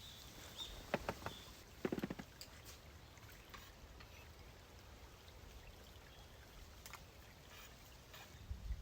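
Faint outdoor background hiss with a few soft clicks about one and two seconds in.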